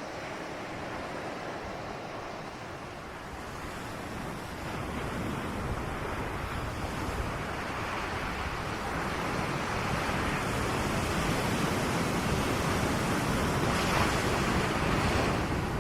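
Ocean surf: the rush of a wave swelling over several seconds, loudest near the end, then falling away quickly.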